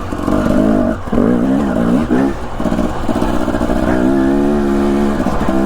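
Husqvarna TE250 enduro dirt bike engine under way, revs rising and falling with the throttle over the first few seconds, then holding a steady pitch from about four seconds in.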